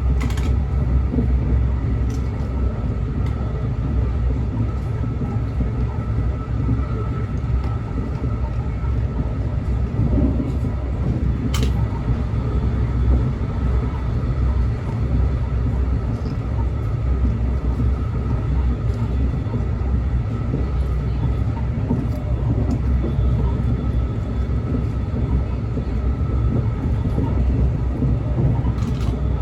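Train rumbling steadily, with a faint steady tone running over the rumble. A sharp click comes about eleven seconds in.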